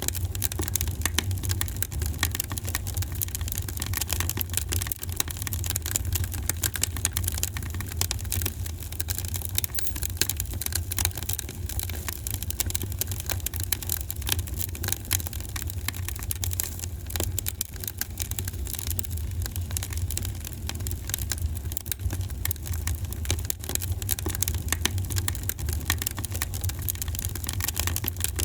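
Fire in a fireplace crackling, with many small pops over a steady low rumble.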